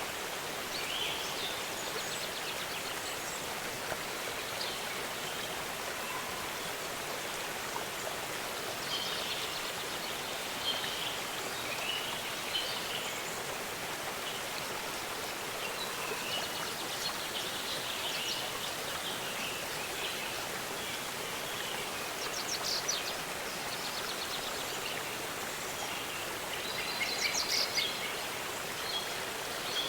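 Waterfall rushing steadily, with small birds chirping and trilling over it now and then; the loudest burst of bird calls comes near the end.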